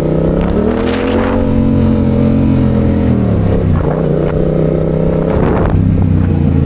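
Motorcycle engine accelerating in traffic: its pitch rises about a second in, holds, drops back around three seconds in, then holds again.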